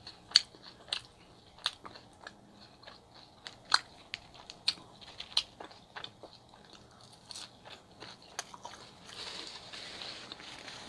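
Close-miked eating sounds: a chicken gyro and fries being bitten and chewed, with sharp, irregular mouth clicks and crunches. A steadier hiss comes in near the end.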